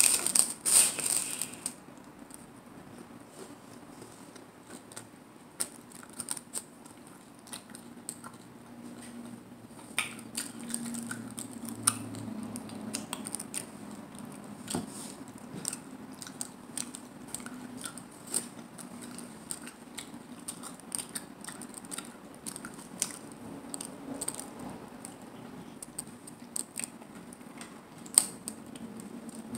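A crunchy bite into a hard taco shell in the first second and a half, then close-up chewing with small crunches and wet mouth clicks.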